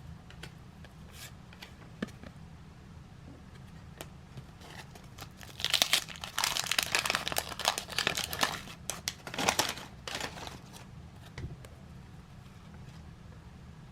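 Wrapper of a 1981 Topps trading card pack being crinkled and torn open by hand. A dense burst of crinkling starts about five and a half seconds in and lasts some five seconds, with a few light handling clicks before and after.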